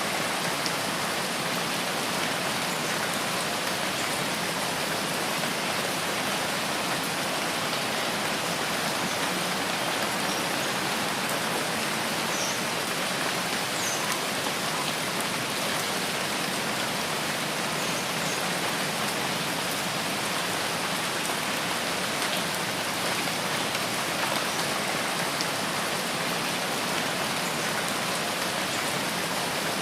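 Steady rain in a rainforest: an even, unbroken hiss of falling rain with no thunder.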